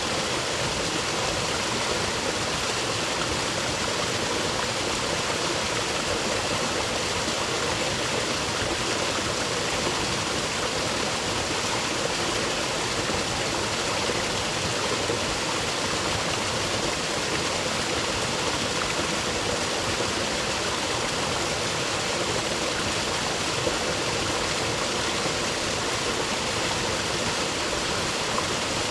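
Rainforest creek running over rocks, a steady rushing of water with no changes.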